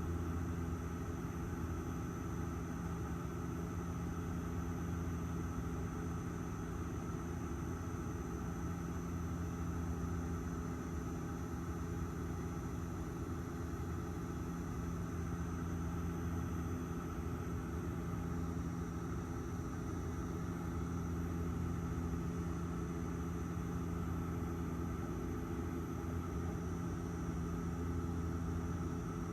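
Airliner cabin noise in flight: a steady drone of the engines and airflow, with a low hum and a faint high whine.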